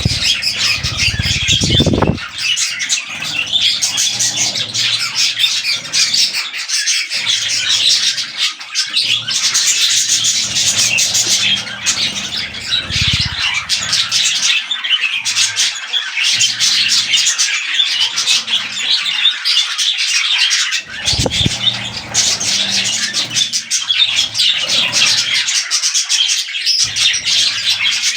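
Budgerigars chattering and squawking continuously, a dense busy warble of chirps and squawks. A few short low thuds come through near the start, about halfway and about two-thirds in.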